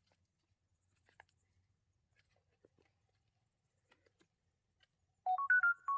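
Faint scattered clicks, then near the end a quick run of clear pitched notes, stepping up in pitch and back down.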